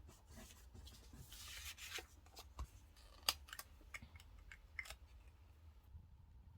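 Quiet desk stationery handling: a short stretch of paper rustling, then a handful of sharp clicks and snips, the loudest a little past three seconds in.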